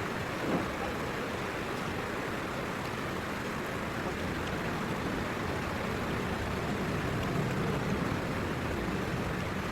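Heavy rain falling steadily, a dense even wash of noise, with one small knock about half a second in.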